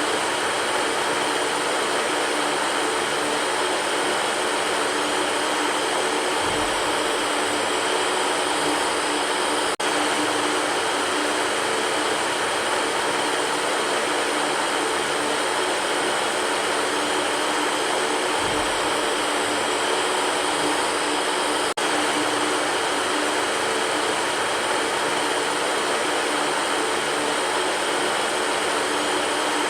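Electric fan running steadily: an even rush of air over a low motor hum, broken twice by a momentary dropout.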